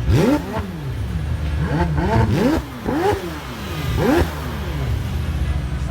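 A car engine revved hard in a series of quick blips, the pitch shooting up and falling back each time, about six or seven times.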